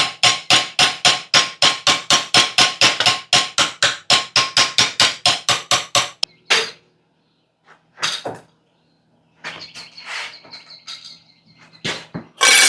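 Hammer striking steel, a fast even run of about five blows a second for some six seconds with a metallic ring, then a few scattered blows.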